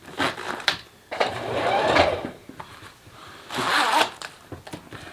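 Zipper on a vinyl boat enclosure panel being drawn in two long pulls, the first lasting over a second, with a few short clicks around them.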